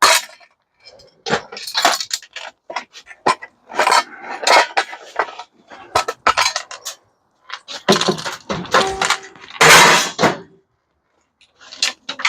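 Irregular clinks, clatter and scrapes of metal and plastic microwave parts being handled and pried apart for scrap, with louder clattering about 8 and 10 seconds in.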